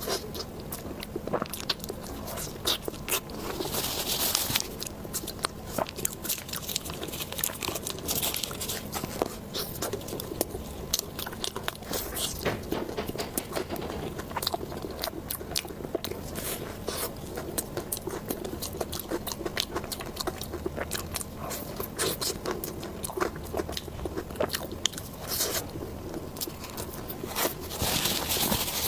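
Close-miked eating: crisp crunching bites and chewing with many sharp clicks throughout, and louder crunches about four seconds in, about eight seconds in and near the end.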